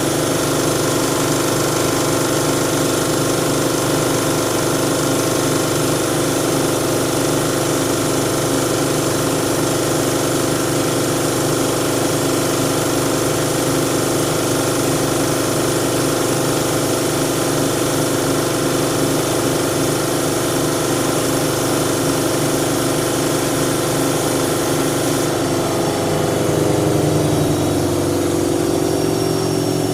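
Siemens Siwamat 7163 washing machine running, its drum motor holding a steady speed with a hum of several steady tones over a whooshing noise. Near the end the pitch of the hum shifts as the motor changes speed.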